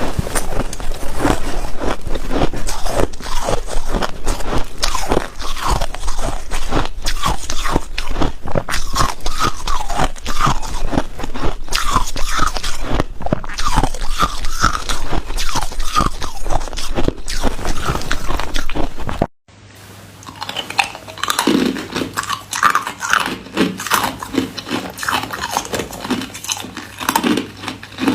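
Hard white ice cubes being bitten and chewed up close: a fast, continuous run of loud crunches and cracks. It cuts off abruptly about two-thirds through, and after a short quieter pause the crunching starts again.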